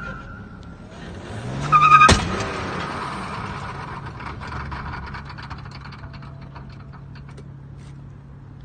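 A car engine revs up briefly, then a single loud, sharp bang about two seconds in, with a short ringing after it. A hiss fades away over the next few seconds, with scattered small clicks over a low engine hum.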